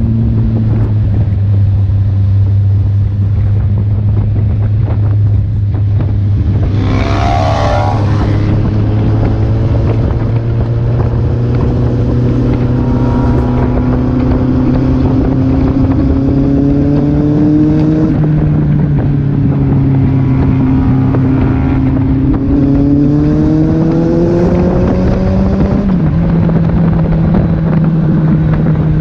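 Kawasaki Z800 inline-four engine running at road speed under heavy wind noise. Its pitch climbs twice under acceleration, with a shift in between and a sharp drop from an upshift about 26 seconds in. A brief high-pitched wavering sound cuts in about 7 seconds in.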